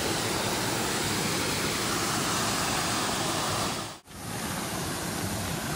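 Steady rush of water pouring over a small cascade, an even noise that cuts out for an instant about four seconds in and comes back slightly quieter.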